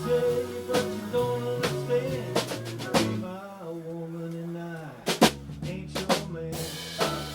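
Live acoustic band playing an instrumental passage: guitars, fiddle, bass and percussion over a steady beat. About three seconds in, the drums drop back for a couple of seconds while held notes carry on, then a few sharp accented hits bring the beat back.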